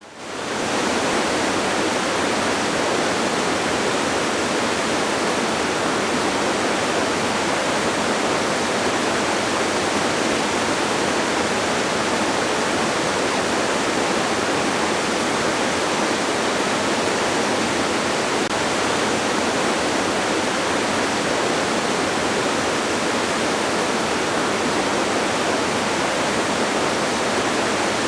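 Waterfall: a steady, even rush of falling water that fades in over the first second and then holds level.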